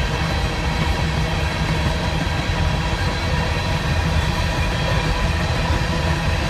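Long freight train of hopper cars rolling past, with a steady, unbroken noise of steel wheels running on the rails, heaviest in the low end.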